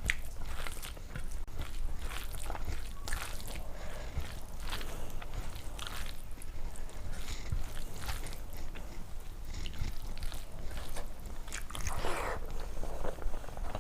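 Close-miked eating: wet, irregular chewing and lip-smacking of rice and curry, with a louder crunchy bite about twelve seconds in.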